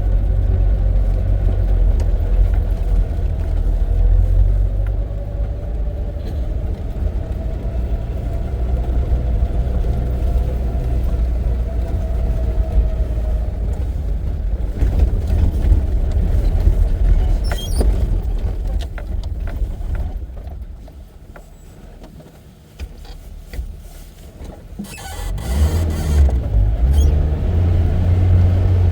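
Motor vehicle running with a heavy low rumble of engine and road noise. It eases off and goes much quieter about two-thirds of the way through, then picks up loud again a few seconds later with some rattling.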